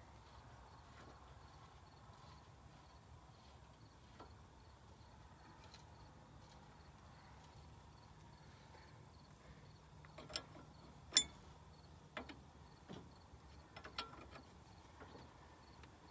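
Faint crickets chirping steadily. A few sharp clicks and knocks come in the second half, one much louder than the rest.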